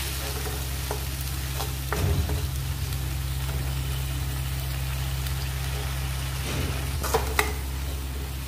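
Green chilli, ginger and garlic paste sizzling as it fries in oil in a metal kadhai, stirred with a metal ladle that scrapes and clinks against the pan a few times. A steady low hum runs underneath.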